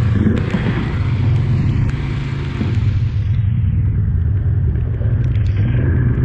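Polaris 570 four-wheeler's single-cylinder engine running with a steady low drone while riding, with a rushing hiss of wind and spray on the microphone that fades about halfway through.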